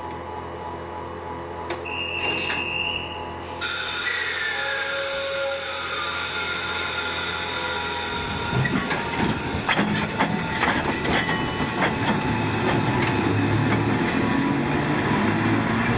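Ōigawa Railway passenger-coach train pulling away: a short high tone, then a sudden steady hiss about three and a half seconds in. About halfway through the train starts rolling, with a rising low rumble and the clatter and knocks of the coaches' wheels.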